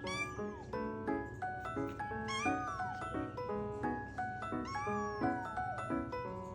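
A kitten meowing three times, each call gliding down in pitch, over background music of steady, evenly stepped notes.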